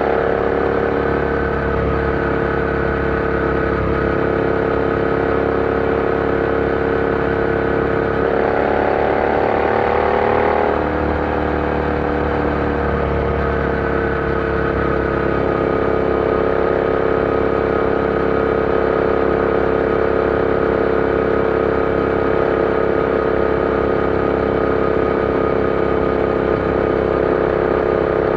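Royal Enfield Interceptor 650's parallel-twin engine running under way at a steady speed. About eight seconds in, the engine note rises for a couple of seconds, then settles back to a steady pitch.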